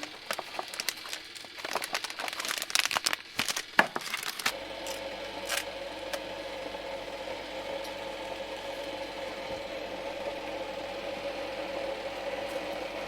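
Crinkling, clicking handling noise for about four seconds, then a steady mechanical hum with an even tone starts suddenly and runs on.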